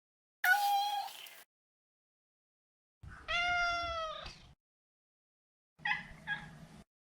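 Maine Coon cat meowing: three separate meows with dead silence between them, the middle one the longest and dipping in pitch at its end, the last a short call broken in two.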